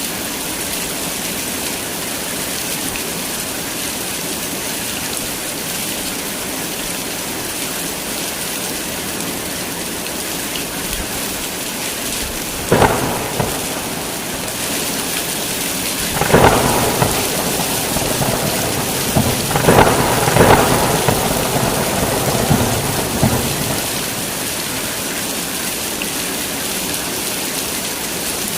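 Heavy rain falling steadily, with a sharp thunderclap about halfway through and a longer rolling rumble of thunder a few seconds later that dies away near the end.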